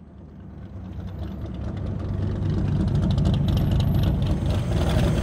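Corvette V8 engine and exhaust rumbling. It fades in and grows louder over the first three seconds, then runs steadily.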